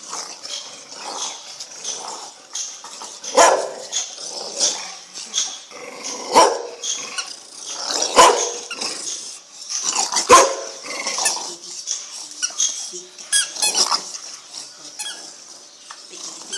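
Bulldog puppies barking in play: four loud, sharp barks roughly two seconds apart, with softer noises between.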